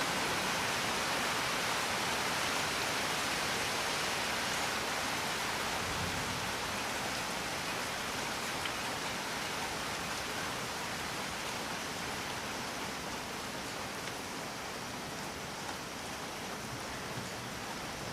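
Steady rain falling, an even hiss with a few faint ticks of drops, getting gradually a little quieter.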